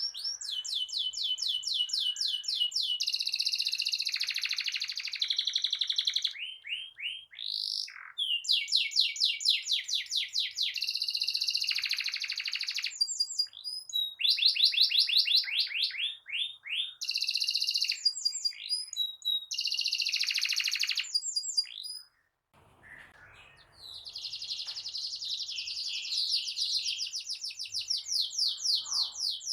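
Domestic canary singing a long song of fast rolling trills and rapidly repeated high notes, in phrases with brief pauses and one near-silent gap about two-thirds of the way through.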